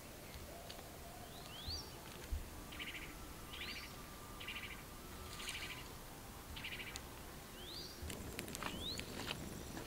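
Wild birds calling: a short rising whistle repeated every second or two, with buzzy chirps between, over a faint steady background. A few sharp clicks and rustles come in near the end.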